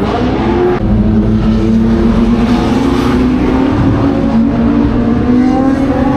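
Historic racing car engines running hard at speed on the circuit. The engine note drops and shifts about a second in, then holds steady and climbs slowly as they accelerate.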